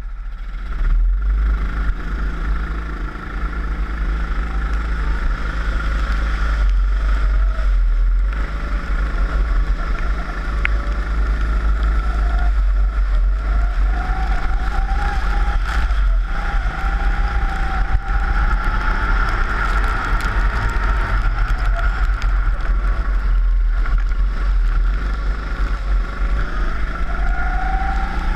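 Four-stroke rental kart engine running hard, heard from on board, its revs rising and falling again and again, with a steady low rumble underneath.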